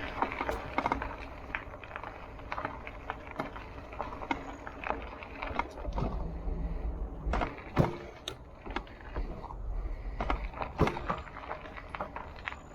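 Bicycle rolling over a bumpy dirt trail: tyres on the ground with irregular sharp knocks and rattles as it jolts over bumps, over a low wind rumble on the microphone.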